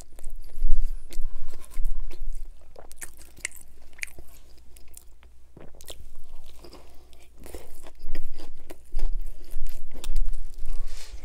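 Close-miked chewing and crunching of a double-meat Italian BMT sub coated in crushed ripple potato chips, with crisp crackles in clusters. The loudest crunches come about a second in and again near the end.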